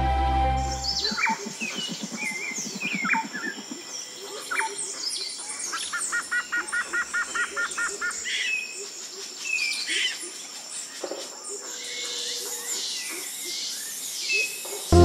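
Woodland birds chirping and calling, with a quick run of about a dozen repeated notes in the middle, over a steady high-pitched tone; background music fades out just after the start.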